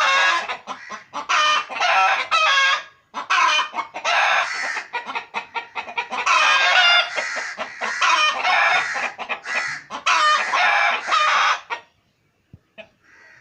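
Several pet backyard chickens clucking over one another in long, busy bouts with brief pauses between them. The clucking stops near the end.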